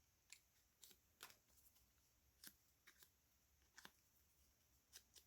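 Near silence broken by about a dozen faint, scattered small ticks and rustles of paper cutouts being handled and set down.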